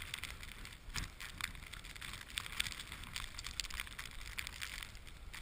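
Footsteps crunching through deep snow, an irregular run of crackling crunches, over a steady low rumble of wind on the microphone.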